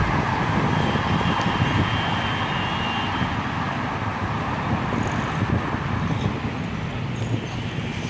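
City street traffic noise: a steady wash of passing vehicles.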